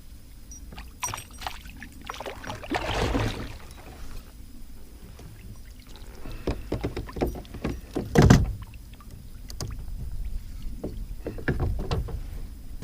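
Scattered knocks, clicks and water sounds in and around a kayak as a just-landed chain pickerel is brought aboard and handled, with one loud knock about eight seconds in.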